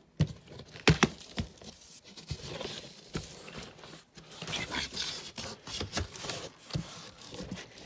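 Cardboard box and packing material being handled while a wheel is unpacked: rustling and crinkling, with a couple of sharp knocks about a second in.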